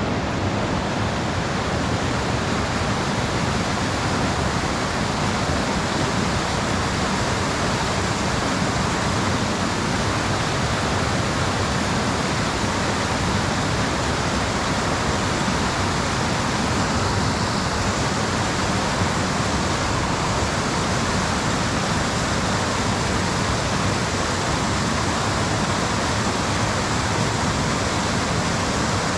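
Mountain stream water rushing: a steady, unbroken noise of flowing water.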